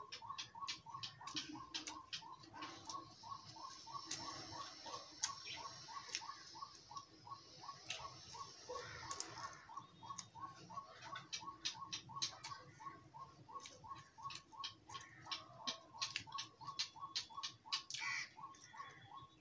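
Chewing a crisp, deep-fried bread pakoda, with irregular crunching clicks, over a steady rapid ticking of about three ticks a second.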